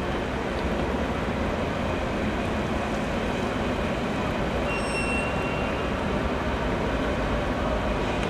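S-Bahn electric train running across an elevated railway viaduct in the distance, a steady low rumble over city background noise. A brief high-pitched squeal comes in about five seconds in.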